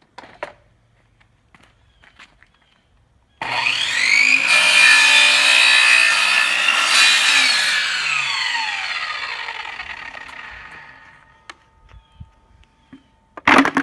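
Electric chop saw starting with a rising whine, cutting through a board of composite decking for about three seconds, then released so the blade spins down with a falling whine that fades over about three seconds. A loud clatter near the end.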